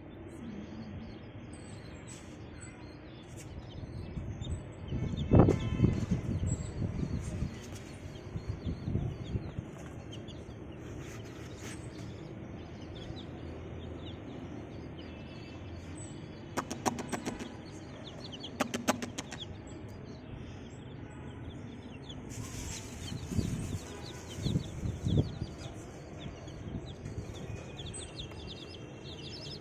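A group of baby chicks peeping continually, with bouts of louder rustling and bumping from their movement and wing-flapping a few times.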